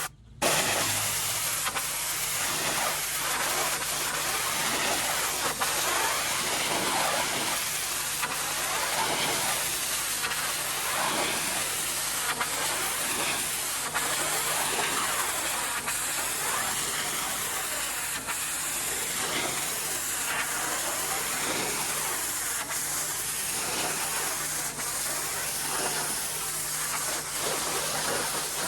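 Pressure washer spray hissing steadily against a surface, with a faint steady hum underneath.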